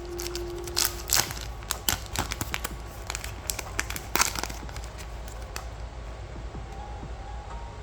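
Trading card pack wrapper crinkling and crackling as it is handled, a dense run of sharp crackles that thins out after about five and a half seconds.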